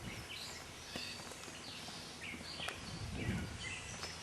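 Birds chirping repeatedly in short calls over a steady background hiss.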